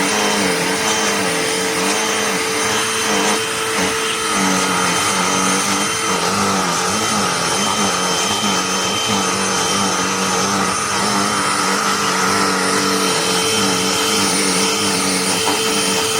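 Cordless handheld vacuum running steadily, a motor hum and rush of air, its pitch wavering slightly in the first few seconds.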